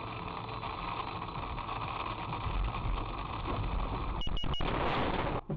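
Steady road and engine noise in a moving car, with three short high electronic beeps about four seconds in; the noise grows louder and then cuts off suddenly near the end.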